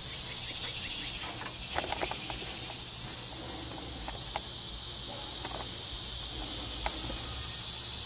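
Aerosol spray-paint can spraying in one long, steady hiss, with a few faint clicks.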